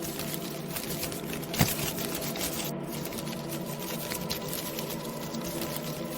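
Layered Halloween ambience: a steady hum of held low tones with fine ticking and patter throughout, and one sharp knock about one and a half seconds in.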